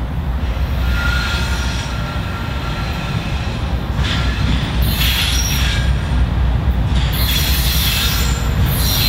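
Norfolk Southern train's diesel locomotives rumbling steadily as they approach, with high-pitched wheel squeal coming and going over it, strongest from about four seconds in and again near the end.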